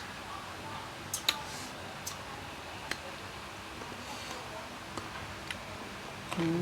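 Someone eating: a few scattered sharp mouth clicks and smacks of chewing, then a short low hummed 'mm' near the end.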